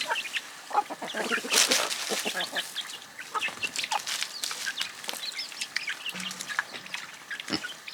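Chickens clucking and calling, many short calls overlapping, with brief high-pitched cries mixed in.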